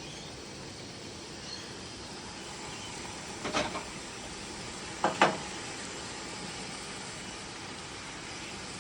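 Kitchen clatter: two quick clusters of knocks, about three and a half and five seconds in, the second louder, over a steady hiss.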